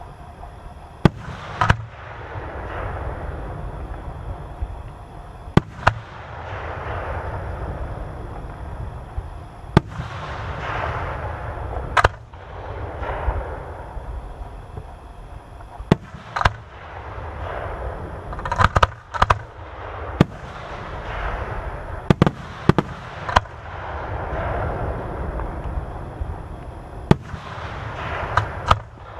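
Aerial fireworks display: shells bursting with sharp bangs every few seconds, some in quick clusters, each bang followed by a swell of rumbling noise lasting a few seconds.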